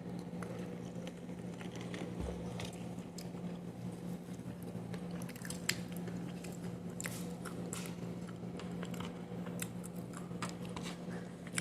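Close-up biting and chewing of edible kaolin clay: scattered crisp clicks and crunches over a steady low hum.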